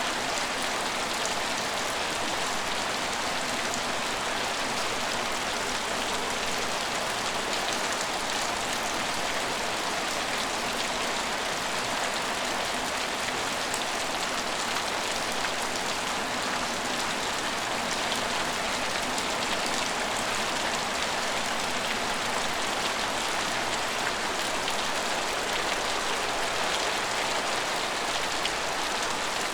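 Steady rain falling and pattering on surfaces, an even hiss of many fine drops with no distinct events.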